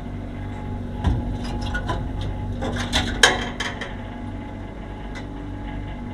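Clatter of small hard objects being handled: a run of short clicks and knocks between about one and four seconds in, the sharpest just after three seconds, over a steady hum.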